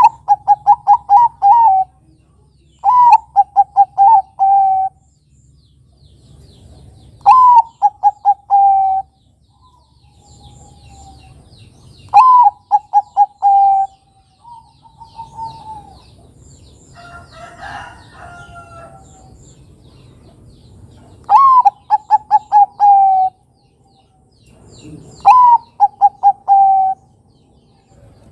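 Zebra dove (perkutut, Bangkok type) cooing: six song phrases a few seconds apart, each a high opening note followed by a quick run of short coos and a longer closing note.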